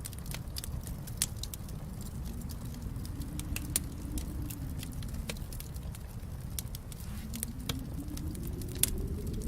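Fireplace wood fire crackling: irregular sharp pops and snaps over a steady low rumble of the flames, with one louder pop near the end. Under it a faint hum slowly rises and falls in pitch.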